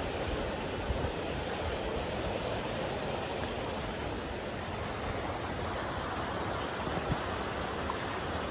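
Steady rush of water at a waterfall, an even hiss with no change, with a faint knock or two.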